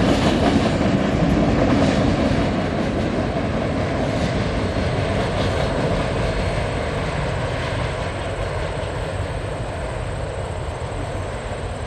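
Freight train autorack cars rolling past on the rails, steel wheels rumbling and clicking. The sound fades steadily as the end of the train moves away.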